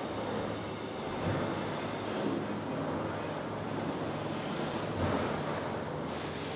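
A steady low mechanical drone, with a few brief louder swells.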